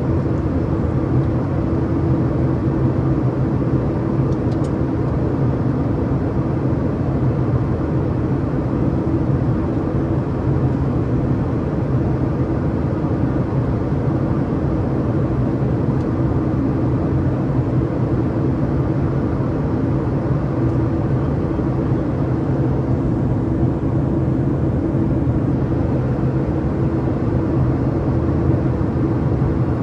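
Steady cabin noise of a Boeing 737-800 in flight: the drone of its CFM56-7B turbofan engines and rushing air, with a low steady hum running under it.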